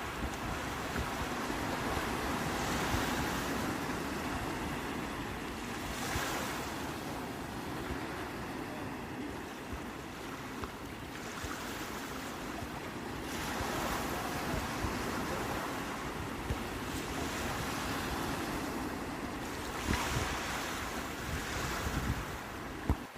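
Sea waves breaking and washing on the shore, the surf swelling every six or seven seconds, with wind on the microphone.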